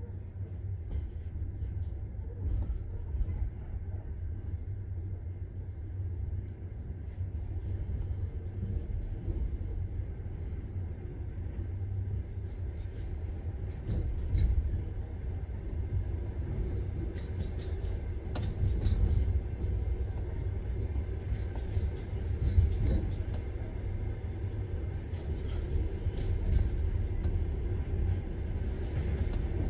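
Passenger train running out of a station: a steady low rumble of the wheels and carriage, slowly getting louder, with a few clicks from the wheels on the track.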